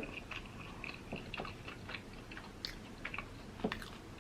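Close-miked chewing of a battered Korean corn dog: soft crunches and small wet mouth clicks, scattered irregularly.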